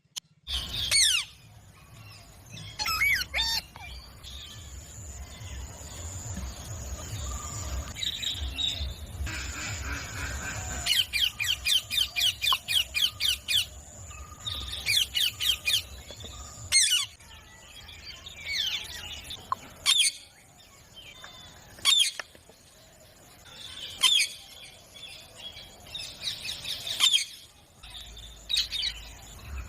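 Green Indian ringneck parrot giving sharp, high screeching calls at irregular intervals, with a fast run of about four calls a second near the middle.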